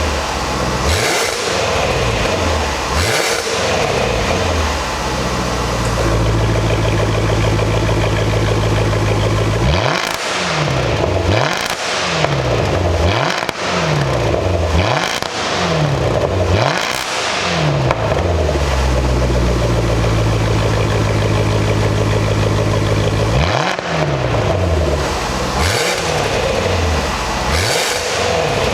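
Range Rover Sport V8 through a one-off valved exhaust with four titanium tips, revved while standing. Runs of quick throttle blips, each rising and falling in pitch about a second and a half apart, alternate with spells held at a steady raised rpm.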